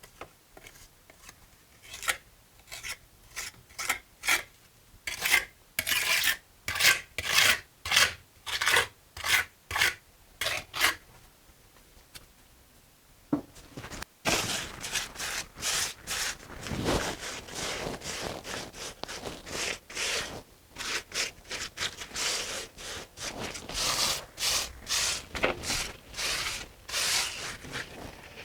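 Trowel scraping and spreading wet mortar over a brick wall. Short strokes come about two a second, then a pause of about three seconds, then quicker, denser scraping.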